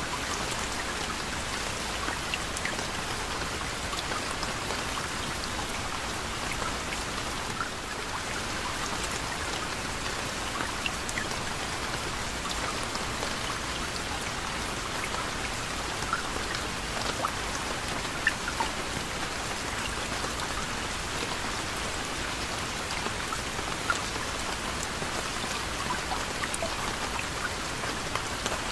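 Steady gentle rain: a soft even hiss with many individual drops ticking and pattering on a surface.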